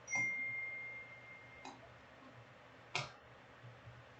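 A few light clicks and taps from handling trading cards, the loudest about three seconds in. The first click is followed by a clear ringing tone that fades over about a second and a half.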